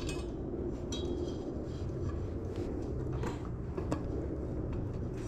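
A few light metallic clinks and taps from wheel and bike parts being handled as a wheel is fitted onto an electric dirt bike, over a steady low background hum.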